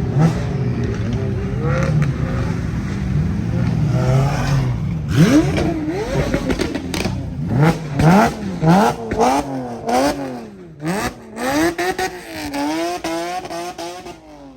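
Sports car engine running steadily, then revved again and again in quick up-and-down blips with sharp pops in between, fading out near the end.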